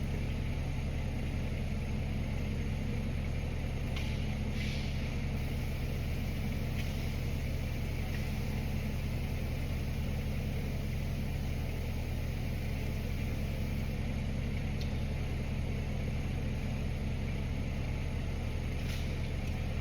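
Steady low mechanical hum, like a motor or fan running, holding at an even pitch and level.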